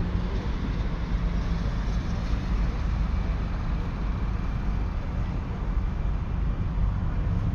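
The 11-litre six-cylinder diesel engine of a 2001 ERF ECX Olympic truck running steadily, a deep rumble with no revving.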